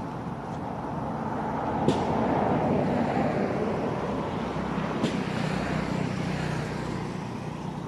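A motor vehicle passing by: road and engine noise swells and then slowly fades, leaving a steady low engine hum, with a couple of sharp clicks.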